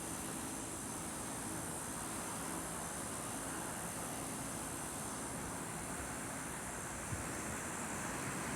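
Steady hiss of outdoor background noise with a faint low hum underneath.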